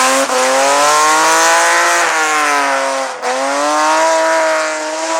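Hillclimb race car engine under hard acceleration, its pitch climbing through the revs. A sudden break about three seconds in, like a gear change, is followed by the pitch climbing again.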